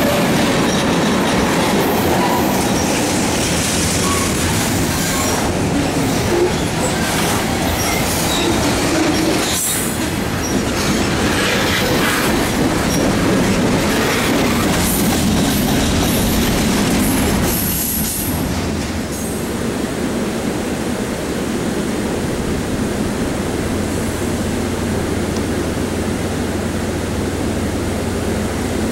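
Freight train of tank cars and covered hoppers rolling past close by, steel wheels on the rails making a loud, dense rumble and clatter. A little past halfway it drops to a quieter steady rushing noise. A low steady hum joins near the end.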